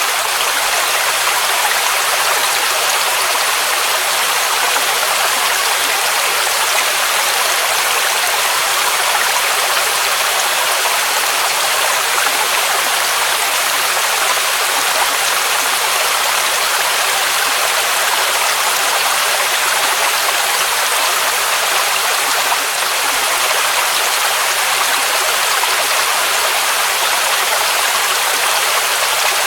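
Waterfall rushing in a steady, unbroken hiss of falling water. The sound is strongest in the mid and high range and has little deep rumble.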